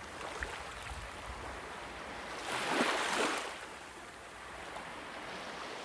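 Rushing water, a steady wash with one louder surge like a breaking wave about halfway through.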